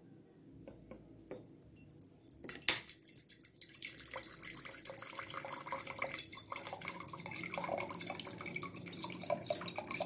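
Grape vinegar poured from a bottle into a container: quiet handling clicks, then from about two and a half seconds in a steady splashing, trickling pour with gurgles.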